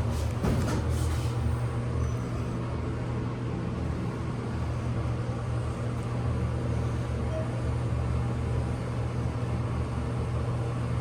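Steady low hum and rumble inside a ThyssenKrupp traction elevator car, with a few faint knocks in the first second.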